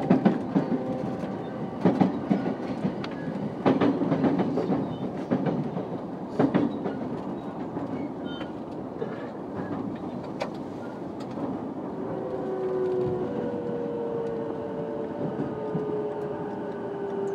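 Running sound of a JR E233-5000 series electric train heard from on board: wheels knocking over rail joints with a steady rumble, then, in the second half, the traction motors' whine gliding slowly down in pitch as the train slows.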